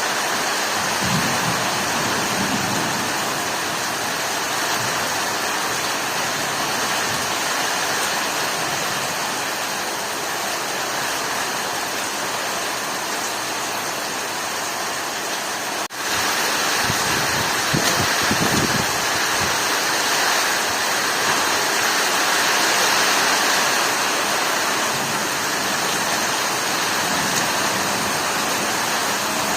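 Heavy rain pouring steadily during a storm, with a couple of short low rumbles. It drops out for an instant about halfway, then carries on slightly louder.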